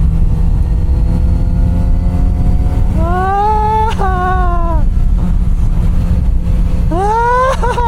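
Kawasaki Z900RS inline-four motorcycle engine running under way, over a steady low wind rush. Twice, about three seconds in and again near the end, the engine note rises and then falls as the throttle is rolled on and off.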